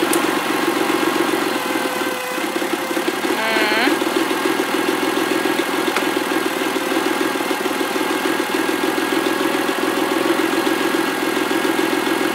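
ST200's engine idling steadily on its first run after a head gasket and timing chain repair, with a fast, even pulse.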